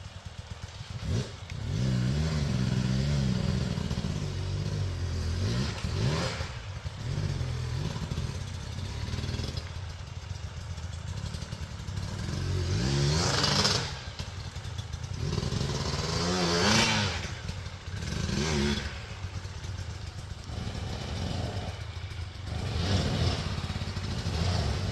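Enduro dirt bike engine being ridden off-road, revving up and falling back again and again as the throttle is worked, with a few louder surges.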